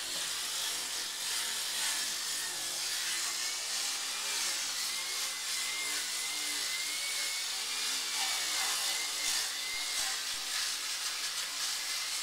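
Electric power sander running steadily on wooden surfaces, a continuous rasping noise with a motor whine that wavers slightly in pitch as the sander is worked.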